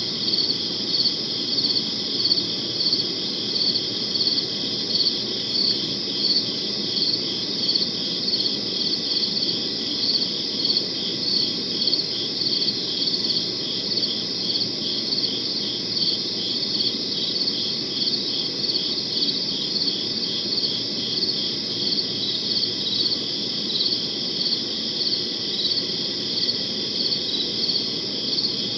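Crickets chirping steadily in a regular pulsing rhythm, about two chirps a second, over a faint low background rumble.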